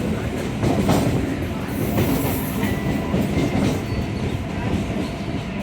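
Chennai MRTS electric suburban train running, heard from on board: a steady rumble with the clatter of the wheels over the track.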